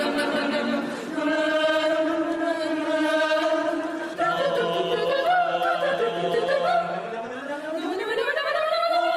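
Mixed student choir singing held chords. In the middle, upper voices move over a low sustained note, and near the end the voices slide upward together in a long rising glide.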